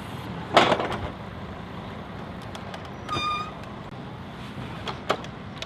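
Steady outdoor background noise, with a brief louder sound about half a second in, a short high beep about three seconds in, and a few sharp clicks near the end.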